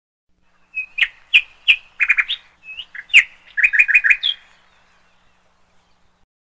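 A bird chirping: a quick run of short, sharp chirps and brief trills, starting under a second in and stopping after about four seconds.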